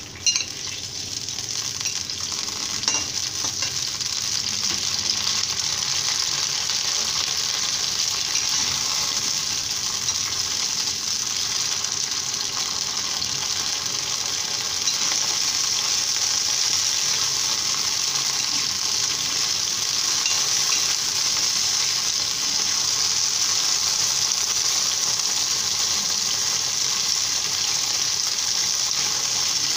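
Cauliflower florets sizzling in hot oil in a steel kadhai, turned now and then with a metal ladle. The sizzle swells over the first few seconds as the florets hit the hot oil, then holds steady. A sharp knock comes right at the start.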